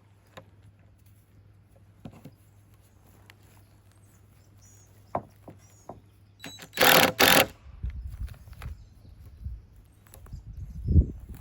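Power driver running in two short bursts about seven seconds in, driving a deck screw into a 2x6 frame. Scattered knocks before it and low thumps of lumber being handled after it.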